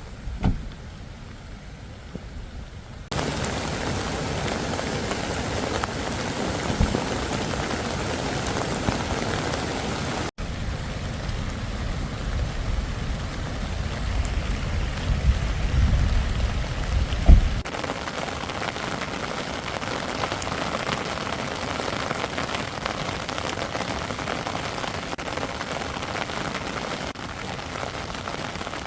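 Heavy rain falling steadily, starting about three seconds in after a quieter opening. In the middle a low rumble swells for several seconds, then cuts off abruptly.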